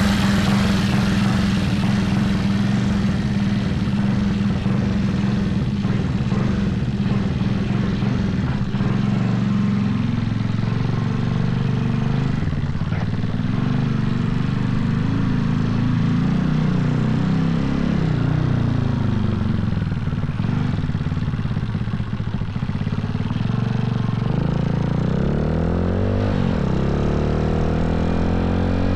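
Honda Z50 minibike's single-cylinder four-stroke engine, bored out with a 108cc stroker crank, idling just after a cold start. The idle is steady at first, then wavers, and the revs rise and fall near the end.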